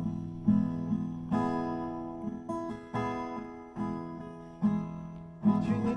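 Acoustic guitar strumming chords in a steady rhythm, a strong downstroke about every second, playing the instrumental bars between sung lines of a song.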